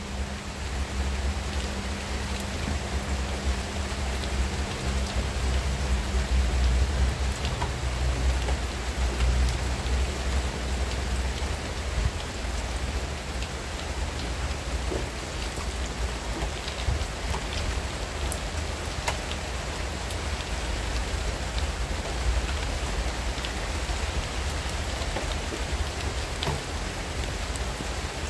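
Steady rain shower falling on palm fronds and broad garden leaves: a dense, even hiss flecked with the ticks of individual drops, over a steady low rumble.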